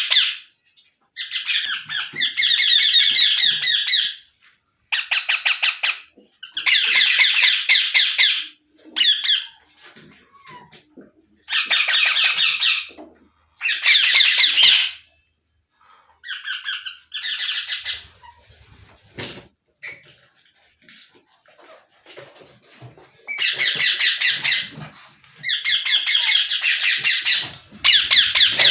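Rose-ringed parakeet (Indian ringneck) screeching in repeated bursts of one to three seconds, about a dozen in all, with a quiet spell of several seconds about two-thirds of the way through.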